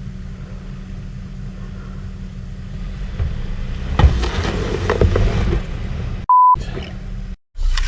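Truck engine idling with a steady low hum, then scraping with a sharp knock about four seconds in. Near the end comes a short, loud, single-pitch censor bleep in a gap of silence.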